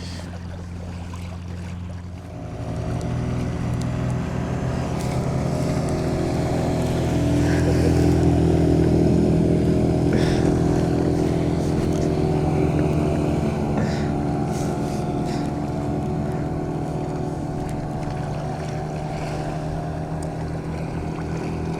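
Small boat's outboard motor running steadily at cruising speed. It grows louder from about two seconds in, is loudest around the middle, then eases off slightly.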